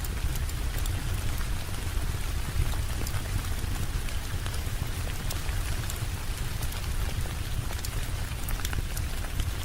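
Steady rainfall with scattered sharp drop ticks over a constant deep low rumble.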